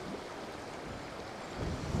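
Trout stream water rushing steadily, with a brief low rumble near the end.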